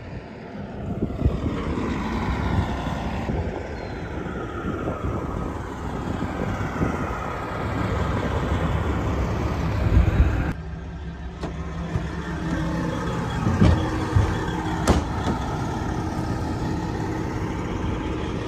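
Road and engine noise from a moving semi-truck, a steady rumble with a hiss that shifts in pitch. The sound changes abruptly about ten seconds in, with a few short clicks shortly after.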